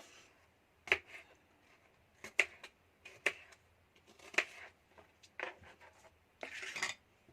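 Light knocks, clicks and a short scrape of kitchen utensils being handled, about one every second or so.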